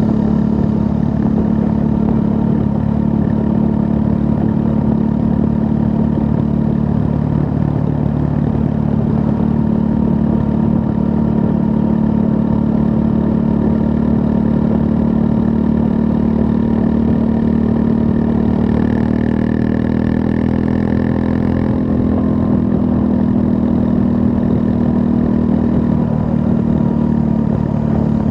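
Triumph Scrambler 400 X's 398 cc liquid-cooled single-cylinder engine running at a steady pitch, rising slightly about two-thirds of the way through.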